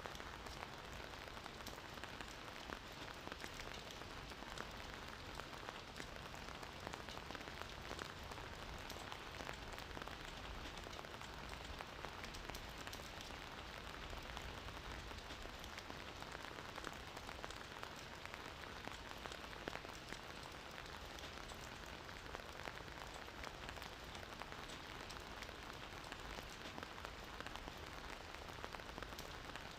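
Steady gentle rainfall, a soft even hiss with fine pattering drops.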